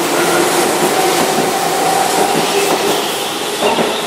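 Keihan 2600-series electric train (set 2633) running past the platform: a steady rush of wheel and rail noise. It eases off slightly near the end as the last car clears.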